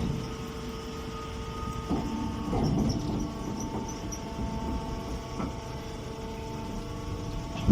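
Straw square baler machine running, a steady mechanical hum with a low rumble, broken by a few short clunks.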